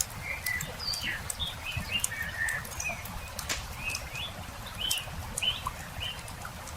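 Wood campfire crackling with frequent sharp pops, while small birds chirp in short high notes throughout.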